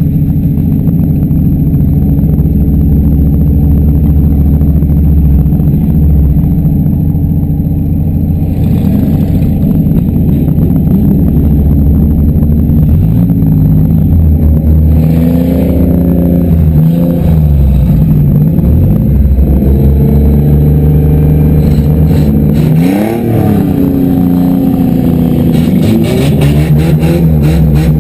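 Demolition derby car engines running loudly and revving, their pitch rising and falling. Clattering knocks come in near the end.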